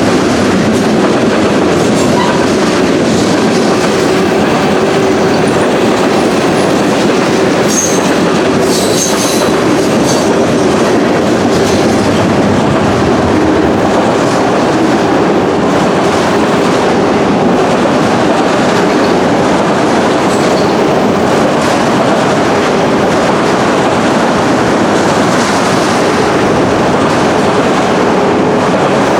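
Norfolk Southern freight train rolling past, a steady loud rumble and rattle of steel wheels on the rails. Brief high wheel squeals come a few times around eight to nine seconds in.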